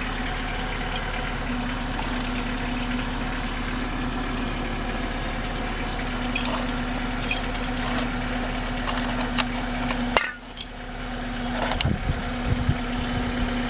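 Honda Accord's A20A3 2.0-litre four-cylinder engine idling steadily, an engine the owner says needs a valve adjustment. A few light metallic clinks come partway through, and a little after ten seconds the sound briefly drops out, followed by some low knocks of handling.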